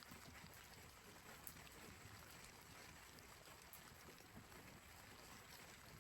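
Faint, steady rain hiss with a few soft ticks, barely above near silence.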